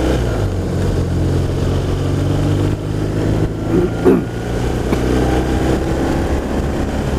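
BMW R1200RT's boxer-twin engine running at a steady cruise, heard through a helmet mic with wind and road noise.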